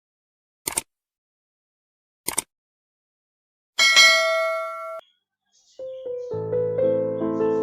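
Two short swooshes, then a bright chime that rings for about a second, then piano background music that starts about six seconds in.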